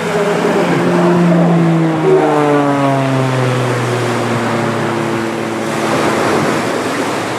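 CAP 231 aerobatic plane flying past, its engine and propeller drone sliding steadily lower in pitch over a few seconds as it goes by.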